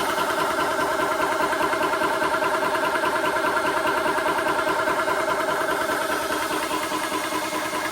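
TOAUTO A1X high-pressure PCP air compressor running steadily with a fast, even pulsing, pumping air up toward 4,000 PSI.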